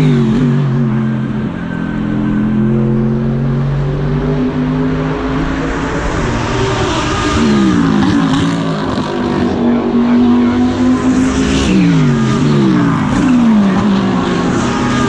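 GT3 race car engine heard onboard: it comes down through the gears under braking at the start, pulls steadily at lower revs for a few seconds, then accelerates hard through a run of quick upshifts, each a rising note that drops back. It changes down again briefly and climbs through the gears once more near the end.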